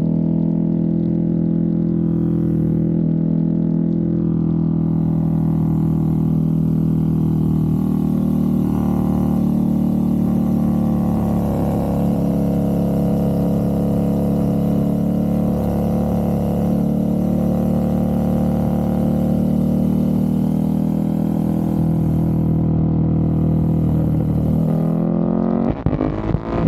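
KTM 1290 Super Duke R's V-twin engine through a full titanium exhaust, running at a steady engine speed while cruising, with a rushing hiss over it. Near the end the note breaks off and then climbs quickly as the bike accelerates.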